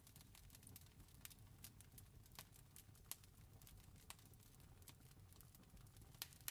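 Faint campfire crackling: irregular wood pops and snaps over a low steady rumble, with a sharper pop about three seconds in and another near the end.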